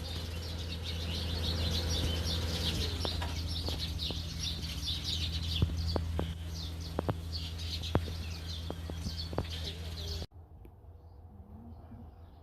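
Many small birds chirping together, over a steady low hum, with a few sharp clicks in the middle. About ten seconds in, the sound cuts abruptly to something much quieter.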